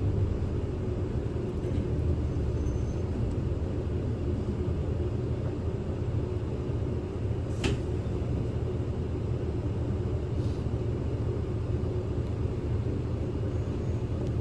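Interior of a Kyoto City bus under way: steady engine hum and road rumble. A single sharp click about halfway through.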